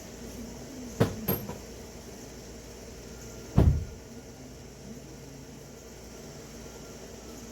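Two sharp knocks about a second in and a heavier thump midway, from hands working in a car's engine bay while clearing out leaves, over a steady low background hum.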